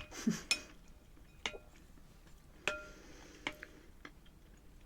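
A spoon clinking against a soup bowl, about five separate light clinks, each with a short ring.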